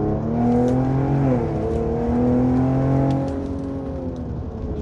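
Ford Explorer's turbocharged engine running loud through a Thermal exhaust on test pipes, straight downpipes without catalytic converters. The exhaust note climbs, dips briefly about a second and a half in, climbs and holds again, then eases off near the end.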